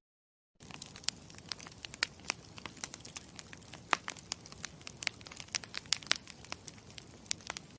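Campfire crackling: a low steady rumble of burning wood with many sharp, irregular pops and snaps. It fades in about half a second in and cuts off abruptly at the end.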